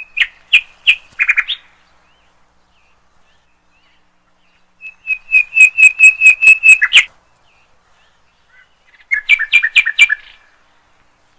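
A bird calling in three bursts of quick, sharp, repeated high notes, loud and close; the middle burst, about five to seven seconds in, is the longest and loudest, and the last burst near the end drops slightly in pitch.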